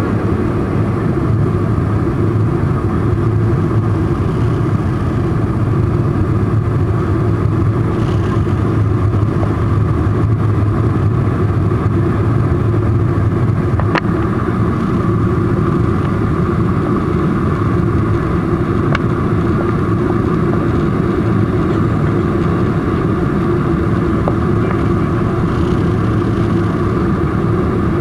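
Steady engine and airflow noise of a Boeing 747-400, heard inside the passenger cabin as a deep, even rumble with a single short click about halfway through.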